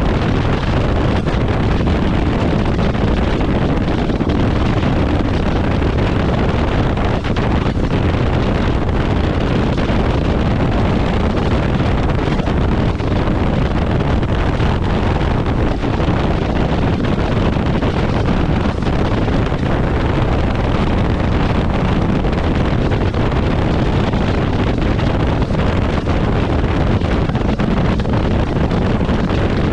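Wind buffeting the microphone on a jet ski running at speed, over the watercraft's engine and the rush of water. It stays steady and loud throughout.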